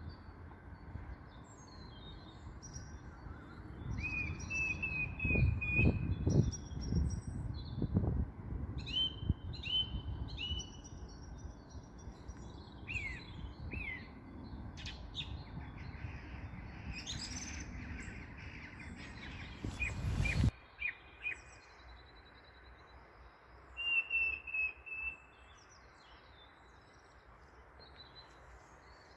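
Common blackbird singing: a run of short whistled phrases with high twittering notes between them, and other small birds chirping. A low rumble lies under the first twenty seconds and stops abruptly.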